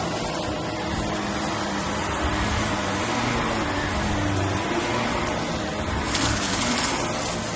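Bissell Helix upright vacuum cleaner running steadily on carpet, a low motor hum under a broad suction hiss, with a brief louder rush of hiss about six seconds in.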